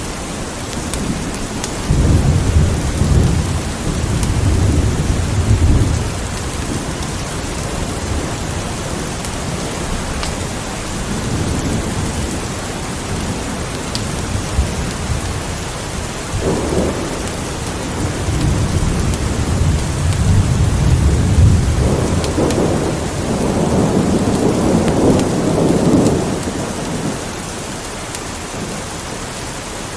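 Steady rain falling, with rolls of thunder rumbling over it: one about two seconds in, and a longer, heavier roll through the second half.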